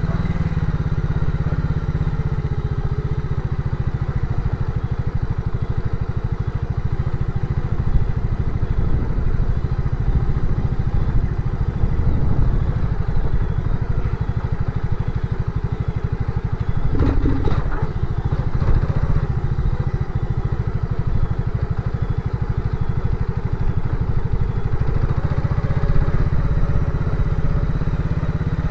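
Motorcycle engine running steadily while riding, with knocks and rattles about two-thirds of the way through.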